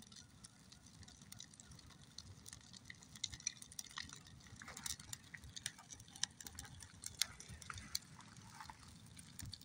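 Newly lit campfire crackling faintly, with irregular sharp pops and ticks.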